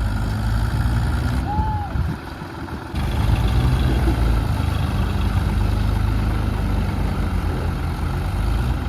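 Tractor diesel engine running steadily, easing off briefly about two seconds in before picking up again.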